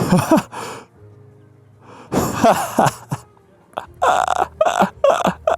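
A man panting and gasping for breath in loud, breathy bursts, out of breath from exertion.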